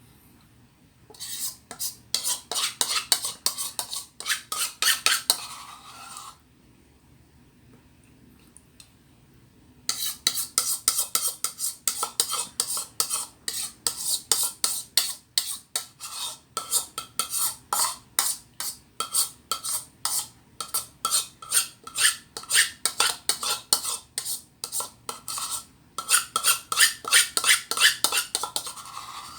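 Metal spoon scraping and stirring quickly around a container of avocado ice cream, roughly three to four strokes a second. The scraping comes in two runs, a short one near the start and a long one from about a third of the way in. This is the sound of the last of the ice cream being scraped out.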